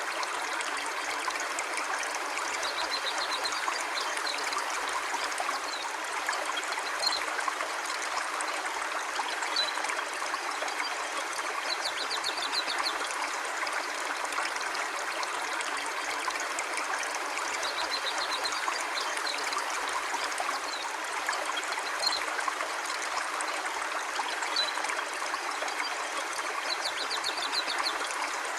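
Stream water flowing in a steady, even rush, with faint short high chirps now and then.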